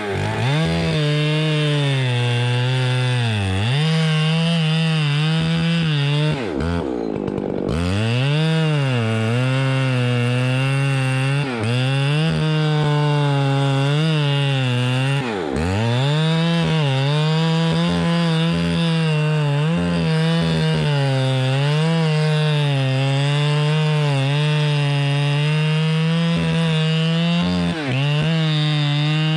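Two-stroke chainsaw cutting wood at full throttle, its engine pitch sagging under load and picking back up several times, with one deep drop and recovery about seven seconds in.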